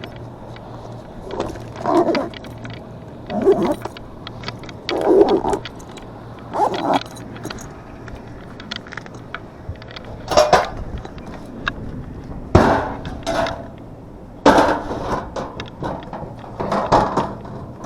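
Repeated short bursts of metallic clinking and rattling, like tools or metal parts being handled, over a steady low hum.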